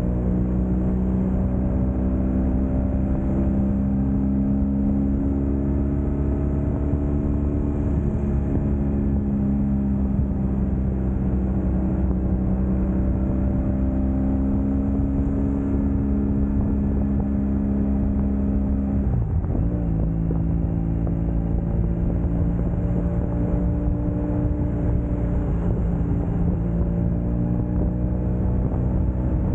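Motorcycle engine running steadily at highway speed, its note rising and falling gently with the throttle; about two-thirds of the way through the pitch dips sharply and settles at a lower steady note.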